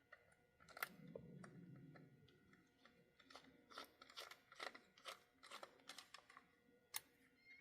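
Scattered small clicks and taps of plastic and metal parts of an HO-scale model locomotive being handled and fitted together, with one sharp click about a second in, a run of quicker ones in the middle and another sharp one near the end.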